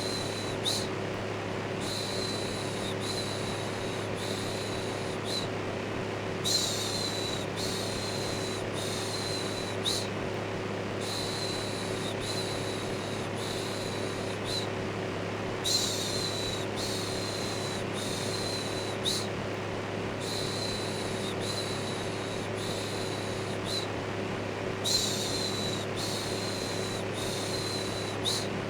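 Steady electric fan running with a constant hum and whoosh, overlaid with a looped rhythmic 'shhh' shushing sound that repeats about once a second in phrases broken by short pauses every few seconds.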